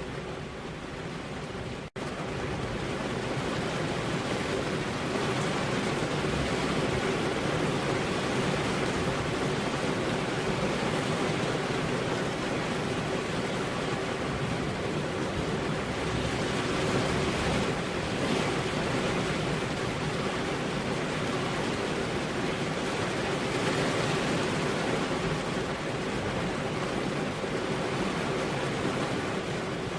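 Heavy rain falling steadily, an even rushing hiss. There is a split-second gap about two seconds in, after which it is a little louder.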